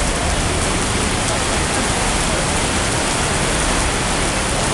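Heavy rain pouring down and hitting the ground and surfaces: a dense, steady hiss with no let-up.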